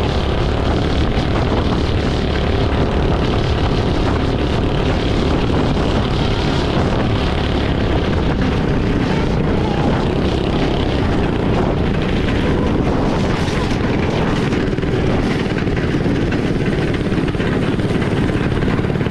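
Small single-cylinder engine running steadily at a constant speed, heard close up.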